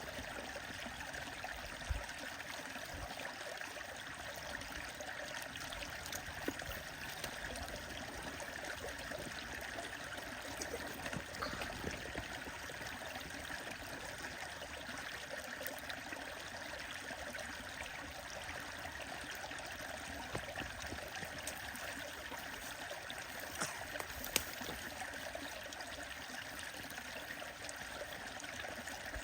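Stream water running steadily, with a few faint sharp clicks now and then.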